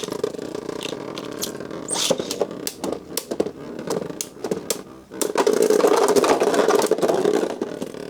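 Beyblade Burst tops spinning and clashing in a plastic stadium: a steady whirr broken by many sharp clicking hits, growing louder about five seconds in.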